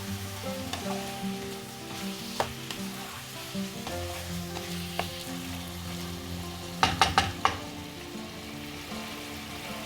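Food frying in a pan, with a spoon stirring it and knocking against the pan: a few single clicks, then a quick run of about four loud knocks around seven seconds in. Background music plays throughout.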